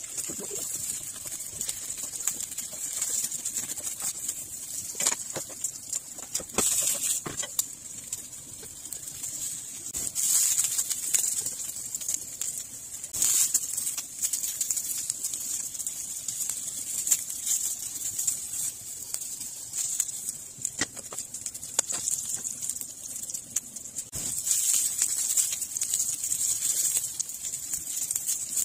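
Eggplant chunks sizzling in oil in a nonstick frying pan, with a few sharp clicks as chopsticks knock against the pan while turning them. The recording is sped up to double speed.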